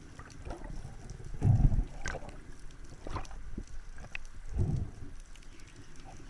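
Water sloshing and gurgling around a diver's camera microphone, with a low rush of water about a second and a half in and again near the end, and scattered faint ticks.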